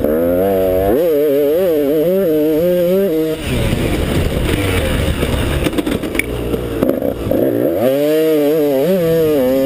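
KTM 200 XC-W two-stroke dirt bike engine heard from onboard, revving up and down with the throttle. There are two stretches of quickly rising and falling revs, with a rougher, lower-running stretch between them.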